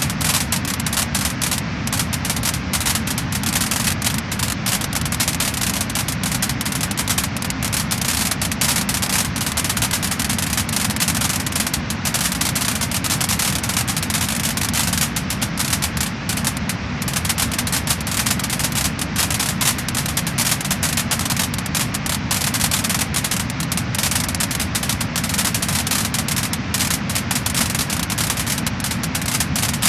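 Wood fire burning in a fireplace: dense, continuous crackling and popping of the logs over a steady hiss.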